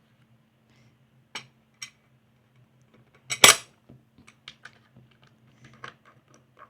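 Light clicks and taps of small hard parts being handled while a wooden, glass-fronted display frame is assembled, with one louder clatter about three and a half seconds in.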